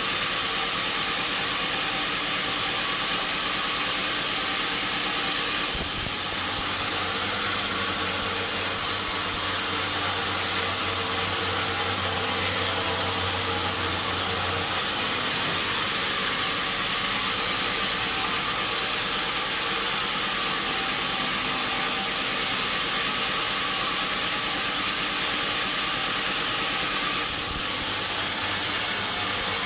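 Sawmill machinery running steadily with a loud, even hiss and a low hum, its sound shifting abruptly a few times.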